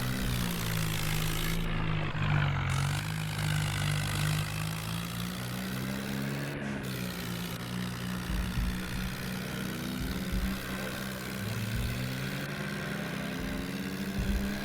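Tractor engine running steadily, its pitch drifting slightly up and down.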